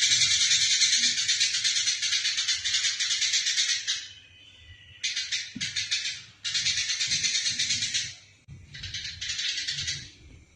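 Eurasian tree sparrows giving their fighting chatter: dense, rapid, harsh chirping. One unbroken run of about four seconds is followed by several shorter bursts with brief pauses between them.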